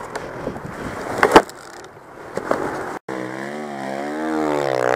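Knocks and rattles with one sharp, loud thump about a second and a half in. After a brief cut near three seconds, a four-stroke enduro motorcycle engine runs steadily, its pitch rising slightly and then dropping near the end.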